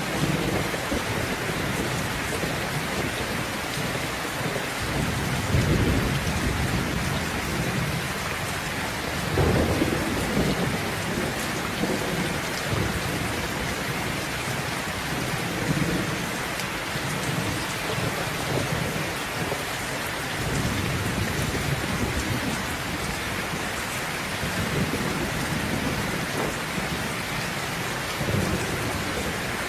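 Steady rain falling, with low rolls of thunder rumbling under it. The biggest rolls come about five and a half and ten seconds in, and a smaller one comes near the end.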